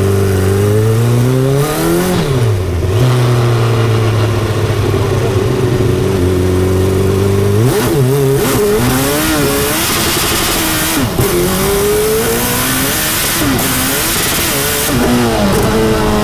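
Turbocharged Suzuki Hayabusa inline-four engine in a 1972 Reliant Bond Bug three-wheeler, driving along at fairly steady revs, then pulling hard from about eight seconds in, its pitch climbing and dropping again and again through the gear changes, with a rush of air noise over it.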